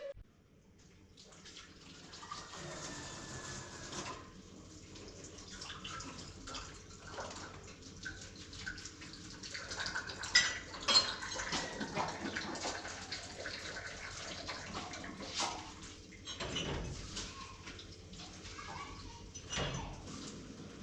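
Water being poured and splashed, with scattered knocks and clinks of vessels or utensils.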